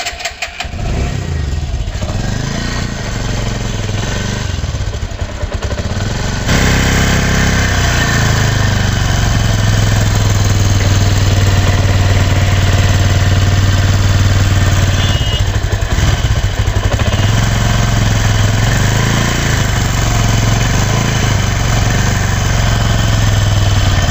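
Bajaj Discover 135 DTS-i single-cylinder four-stroke engine running just after starting, settling to a steady run and stepping up to a louder, faster run about six and a half seconds in, with a short dip around sixteen seconds. It makes the abnormal engine noise that the mechanic puts down to a loose timing chain that a new auto tensioner has not tightened.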